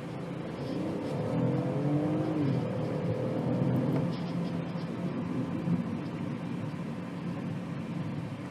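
BMW 218i Gran Coupe's 1.5-litre turbocharged three-cylinder engine pulling as the car accelerates, heard from inside the cabin. The engine note rises in pitch and gets louder about a second in, then settles into a steady drone as the car cruises.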